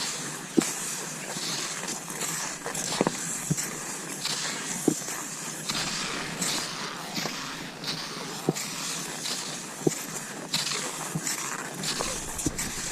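Cross-country skis swishing over snow in a steady stride rhythm, with a sharp click every few seconds.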